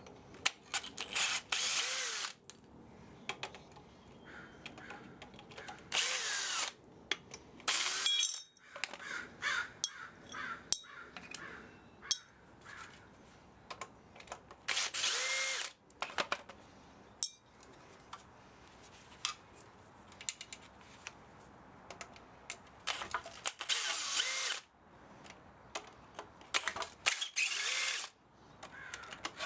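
Power drill run in repeated short bursts of about a second each, its motor whine rising and falling in pitch with each trigger pull, with small clicks in between: driving out fasteners while dismantling an old spa motor.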